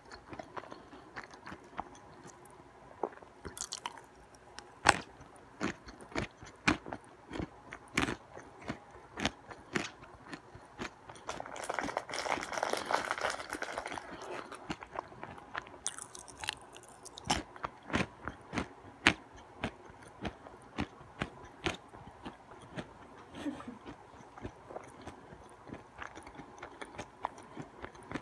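Someone chewing nuts, with sharp, irregular crunches coming several times a second. There is a denser, noisier stretch of chewing about halfway through.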